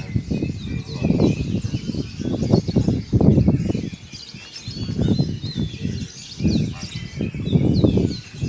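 Many caged songbirds chirping and twittering together, a dense mix of short high calls. Louder low rumbling surges come and go underneath.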